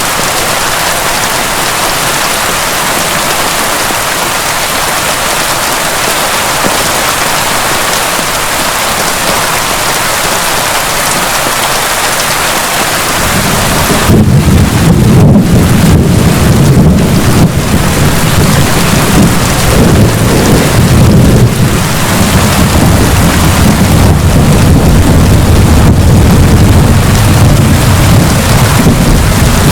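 Heavy rain hissing steadily. About halfway through, a long, deep rumble of thunder builds and rolls on to the end, louder than the rain.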